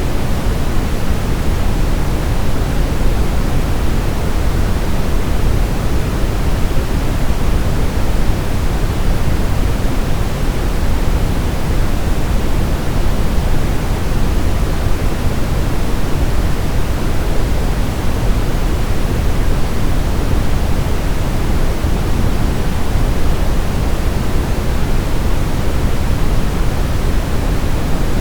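Steady brown noise: an even rushing hiss weighted toward the deep bass, without change.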